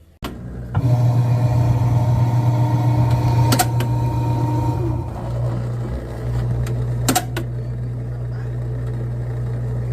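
LG TurboDrum washing machine running with a loud, steady low hum and three sharp knocks about three and a half seconds apart: the strange noise of the faulty drain motor, which pulls and then snaps back abruptly.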